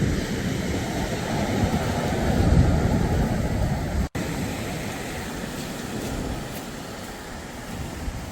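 Wind buffeting the microphone over sea surf, a rough, rumbling noise that rises and falls. It drops out for an instant about four seconds in.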